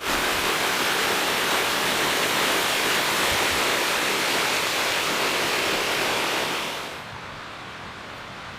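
Steady rush of falling water from a small mountain waterfall, which drops suddenly to a quieter hiss about seven seconds in.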